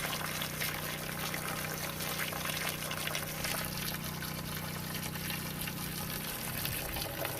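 RV fresh-water pump running with a steady hum while water runs through the cold-water faucet. About six seconds in the hum changes as the pump starts to gurgle, a sign that it is drawing air because the water jug it feeds from is nearly empty.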